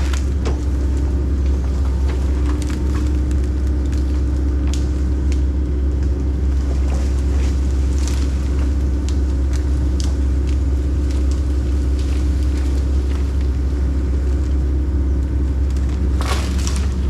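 Kobelco SK140 tracked excavator's diesel engine running steadily with a deep drone, with scattered sharp cracks and clicks, a cluster of them near the end.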